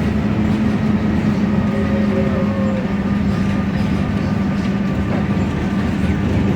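Mercedes-Benz OM906LA six-cylinder diesel engine of a rear-engined city bus running with a steady, even drone and a strong low hum.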